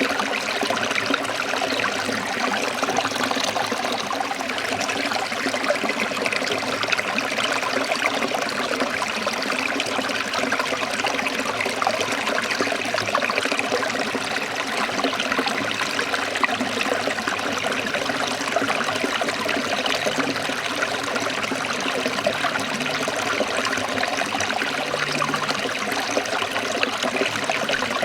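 Forest stream water trickling and flowing steadily.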